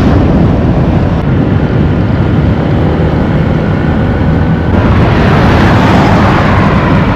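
Loud, steady wind rush and rumble from a motor scooter riding at speed, the wind hitting the microphone. About five seconds in it turns brighter and hissier.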